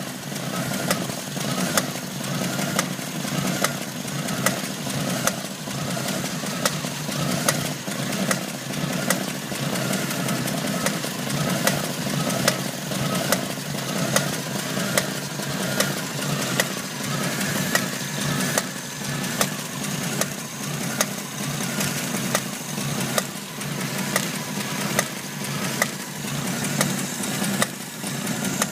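Jeep CJ7 engine running steadily at idle with a repeating sharp knock, recurring about once a second over the engine note.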